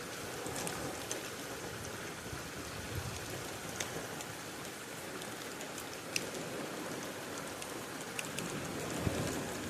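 Steady rain falling, an even hiss with scattered sharp ticks of single drops striking close by. A soft low rumble comes in near the end.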